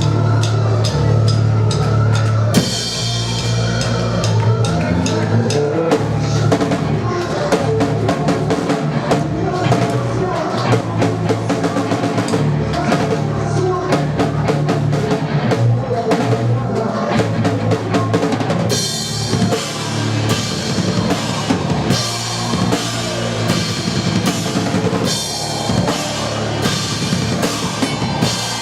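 Live rock band playing with the drum kit to the fore: kick and snare strokes over a sustained low bass note, with crashing cymbals coming in about two and a half seconds in.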